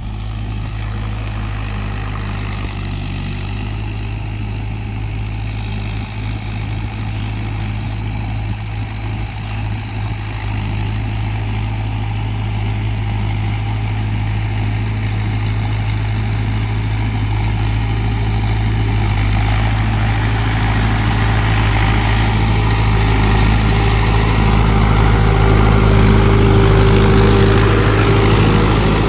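Trakstar 545 DLX tractor's four-cylinder diesel engine running steadily under load while pulling a rotavator through mud, growing gradually louder.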